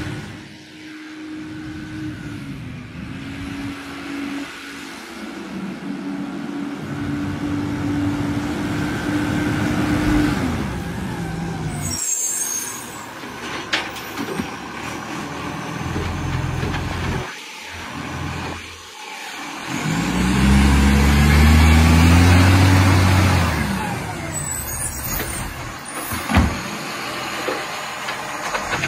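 A rubbish truck's engine running and revving, loudest about two-thirds of the way through, with short air-brake hisses.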